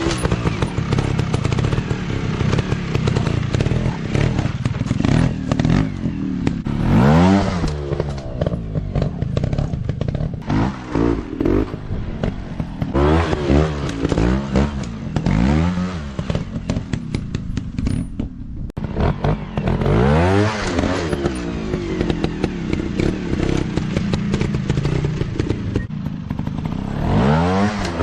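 Dirt bike engines revving up and falling back again and again in repeated bursts of throttle, amid scattered clatter and knocks.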